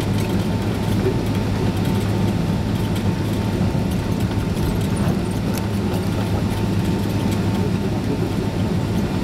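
Steady drone of a Boeing 767-336's Rolls-Royce RB211 engines and rushing air, heard from inside the passenger cabin, with a deep hum and a faint steady whine.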